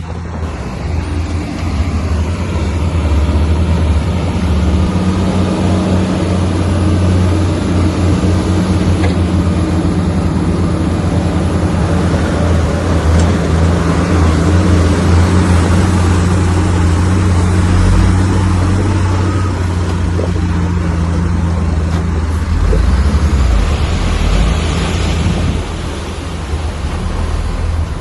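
Heavy diesel engine of earth-moving machinery running steadily under load, its note shifting in the second half.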